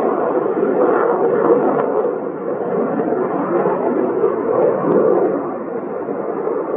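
F-35A fighter jet's Pratt & Whitney F135 engine giving a loud, steady roar.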